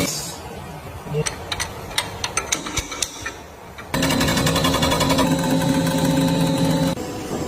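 Irregular sharp metallic clicks and knocks of hand tools for about three seconds, then an engine running steadily, cutting off suddenly near the end.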